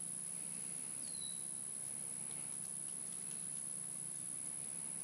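Outdoor ambience of steady high hiss, with a bird's short falling whistle about a second in.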